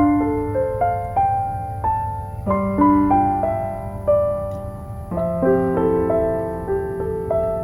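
Soft solo piano music: a slow melody of single struck notes that ring and fade, over lower sustained notes, with a steady low background rumble beneath.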